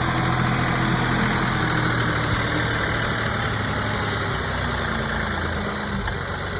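John Deere 2038R compact tractor's diesel engine running steadily, a little quieter near the end.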